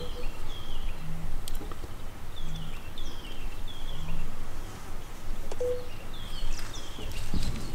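Wild birds calling: short descending chirps repeated in quick runs of two or three, over a steady low rumble of background noise.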